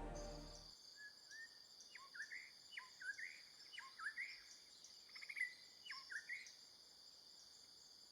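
Faint tropical morning ambience: a bird gives short whistled calls that sweep down and then up, repeated about once a second for several seconds, over a steady high buzzing of insects.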